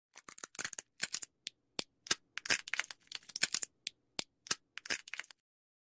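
Nuthatch pecking and hammering at seeds: a quick, irregular series of sharp taps and cracks that stops abruptly near the end.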